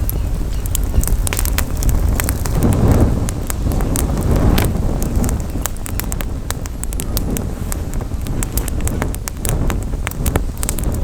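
Wood campfire crackling, with many sharp pops and snaps, over the heavy low rumble of wind buffeting the microphone.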